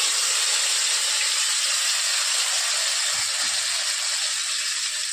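Wet ground tomato, onion and red-chilli paste hitting hot oil with cumin seeds in a pan: a loud, steady sizzle that eases slightly toward the end.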